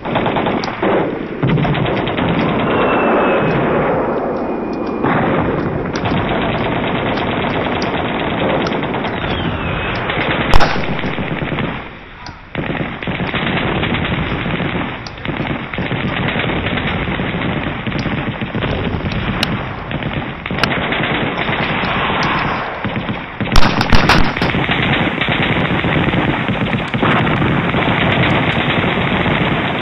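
Continuous battle sound effect of machine-gun and rifle fire, a dense unbroken rattle, with a sharper louder shot about ten and a half seconds in and another cluster near twenty-four seconds.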